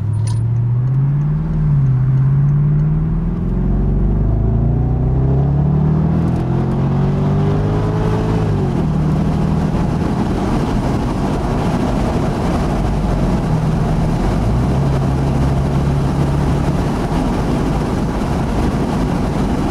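BMW 650i's naturally aspirated 4.8-litre V8 under hard acceleration, its revs climbing with the six-speed automatic upshifting about a second and a half in and again about eight and a half seconds in. It then settles to a steady cruise while wind and road noise grow.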